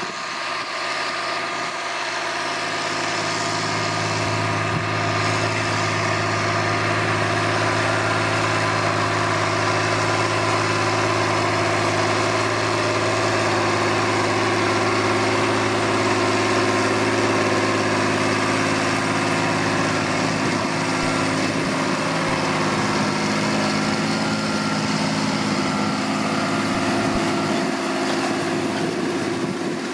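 John Deere 8400 tractor's six-cylinder turbo diesel working under load while pulling a disc harrow, a steady engine sound that grows louder over the first few seconds and eases off slightly near the end.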